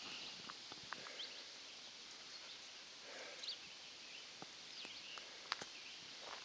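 Footsteps on a rocky trail: scattered light clicks and scuffs of boots on stone, over a faint steady outdoor hiss, with a few short, faint bird chirps.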